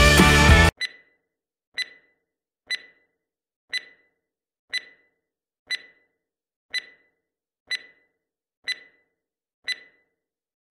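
Background music cuts off under a second in. Then come ten short, high electronic countdown beeps, one a second, counting down to the next workout interval.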